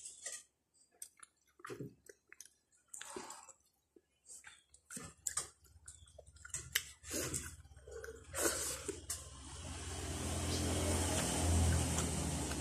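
Close-up eating sounds of grilled fish eaten by hand: wet chewing and lip smacks, many short sharp clicks. From about halfway a steady low mechanical hum with a hiss swells in and becomes the loudest sound toward the end.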